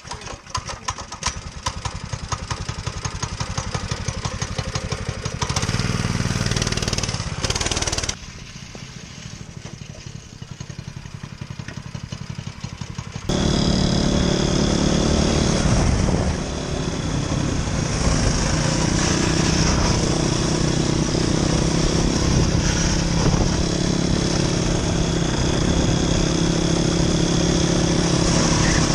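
Motoland RT200 motorcycle's single-cylinder engine running, changing revs a few times, then running much louder and higher from about thirteen seconds in, as when the bike is ridden off under throttle.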